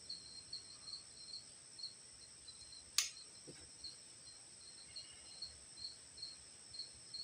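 A cricket chirping in an even rhythm, about three short chirps a second, over a faint steady high hiss. One sharp click about three seconds in.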